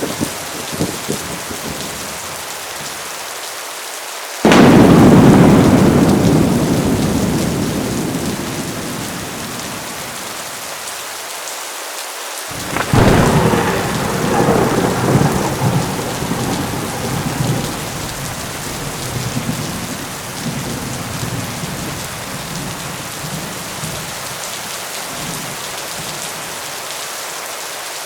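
Heavy rain falling steadily through a thunderstorm. A sudden loud thunderclap about four seconds in dies away slowly over several seconds. A second clap of thunder comes about halfway through and rolls on unevenly for a few seconds.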